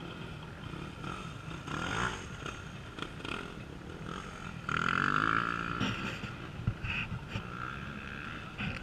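Off-road racing motorcycle engines running, with one bike revving hard and rising in pitch about five seconds in. A brief knock comes a little later.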